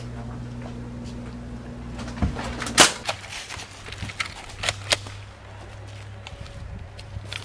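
A loud, sharp bang about three seconds in, with a smaller crack just before it and several more sharp cracks over the next two seconds, over a steady low hum.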